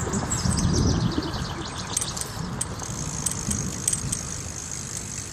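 Wind rumbling over the microphone and road noise while riding a bicycle, with scattered small ticks and a faint steady high whine from about halfway through.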